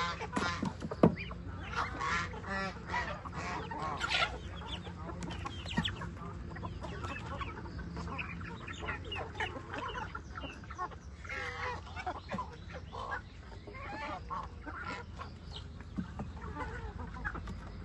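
Mixed farmyard poultry calling over one another: chickens clucking among geese honking and ducks calling, in a steady stream of short overlapping calls. One sharp knock about a second in.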